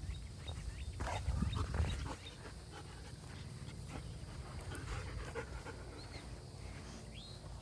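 A dog panting, with a louder low rumble over the first two seconds and two faint high chirps near the end.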